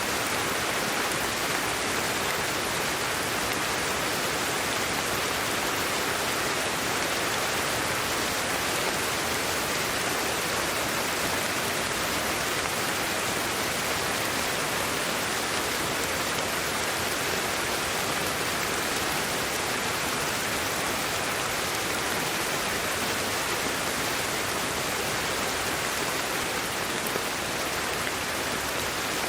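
Steady, unchanging hiss of sleep-aid white noise, brightest in the upper middle range and thin in the bass, with no breaks or separate sounds.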